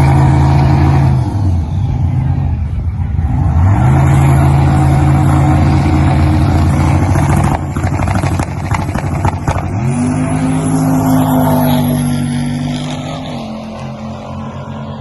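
Big-turbo LS V8 in a Dodge Dakota revved up and held at steady high revs three times, each time for a few seconds before dropping back, with crackling between the second and third. It settles to a lower, quieter running near the end.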